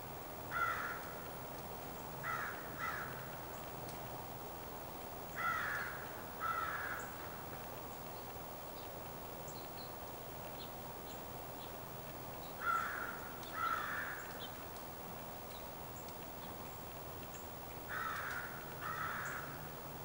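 A bird calling: short calls, mostly in pairs about a second apart, repeated several times over a steady outdoor background hiss. Faint high chirps of small birds come in between.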